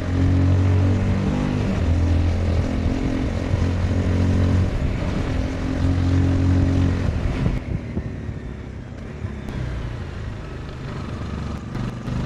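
Honda CBR 250R's single-cylinder engine under way, the note rising and falling in several pulls over the first seven seconds, then dropping to a quieter, lower running for a few seconds before picking up strongly again near the end.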